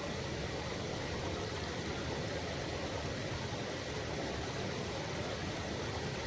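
Mountain river babbling, a steady even rush of water with no breaks or sudden sounds.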